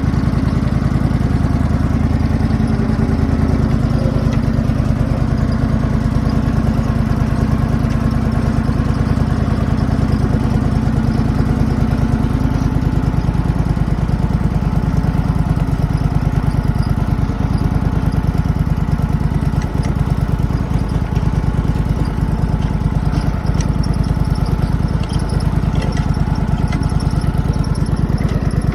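Riding lawn mower's small engine running steadily at a loud, even level, its speed shifting a little now and then.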